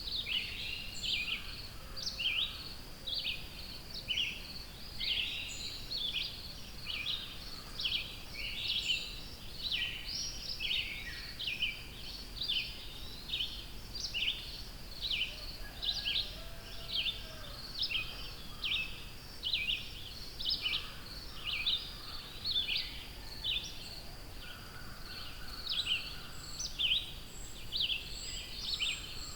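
Songbirds chirping and singing in a steady, dense run of short high calls, about two a second, with fainter lower calls now and then.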